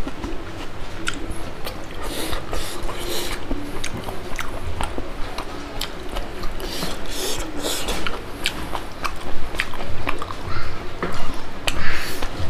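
Close-miked chewing and wet mouth smacks of a person eating rice and pork by hand: a dense run of sharp clicks and short smacks that grow louder in the last few seconds.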